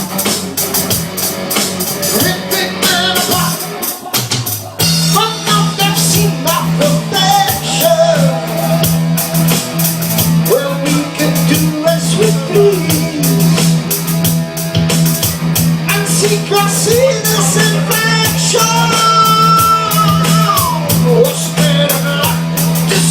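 Rock band playing with a singer over guitar and drums; the music thins out briefly about four seconds in, then comes back in over a steady low note.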